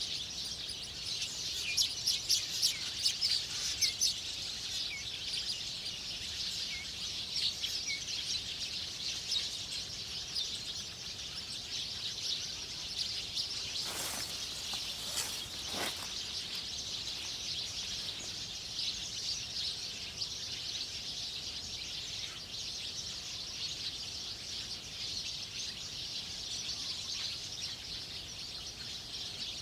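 Small birds chirping and twittering continuously in a dense high chorus, busiest in the first few seconds. Two short sharp knocks come about halfway through.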